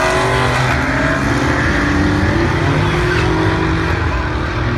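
Engines running hard at wide-open throttle in a drag race, with a steady engine tone that climbs a little in pitch through the first part and then holds.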